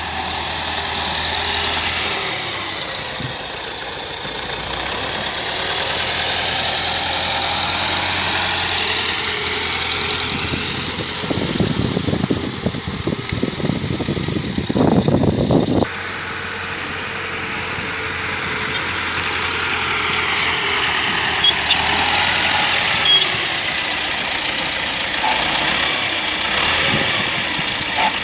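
T-40 wheeled tractor's air-cooled diesel engine running under way. About 11 seconds in, a dense, irregular clattering joins it for some five seconds and stops abruptly.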